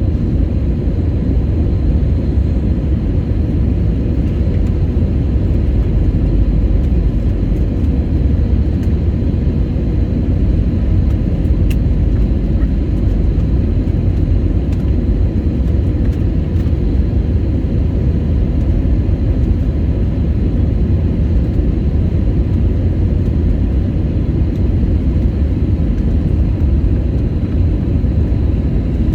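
Steady low rumble of jet engines and rushing airflow inside a passenger airliner cabin, with a faint steady hum.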